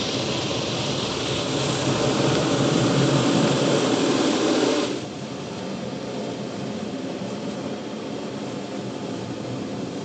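Automatic car wash machinery running: a steady rushing noise of spray and machinery that swells, then drops abruptly about five seconds in to a quieter steady hiss.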